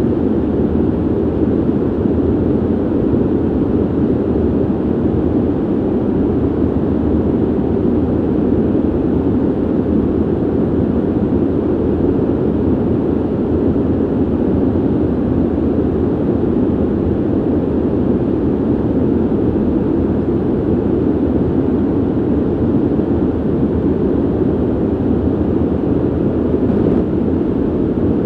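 Steady rush of air from a ventilation system: a deep, even whoosh with no rhythm or pitch, unchanging throughout.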